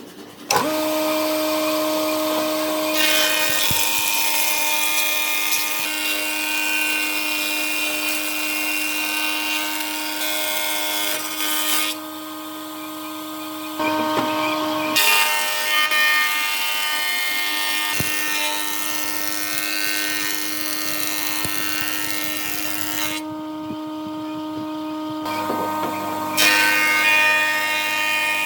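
An electric power tool starts about half a second in and runs with a steady whine. It eases off twice for a second or two along the way.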